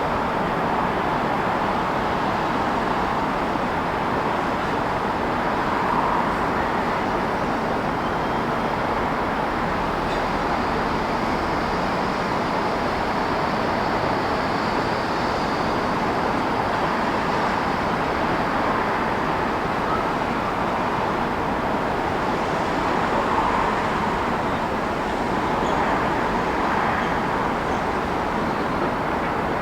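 Steady city traffic noise: a continuous wash of road vehicles passing, swelling slightly now and then.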